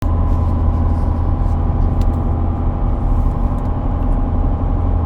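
Steady in-cabin drone of a Chevy pickup's 5.3-litre LS V8 and drivetrain while driving, with a faint click about two seconds in.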